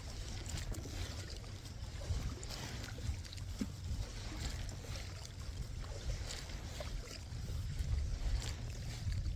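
Kayak paddling: the paddle blades dip and splash in the lake water in irregular strokes, over a steady low rumble of wind on the microphone.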